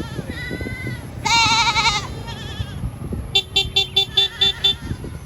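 Bleating livestock. One loud, wavering bleat comes about a second and a half in, with a fainter call before it, and a quick stuttering string of short calls near the end.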